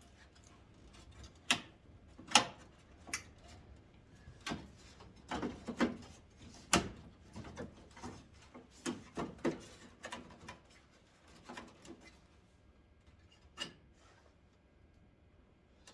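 Irregular clicks, knocks and rubbing as parts of a 1991 Ford Ranger's old headlight assembly are worked by hand; the parts are stiff and hard to get apart. The knocks thin out after about twelve seconds, with one more near the end.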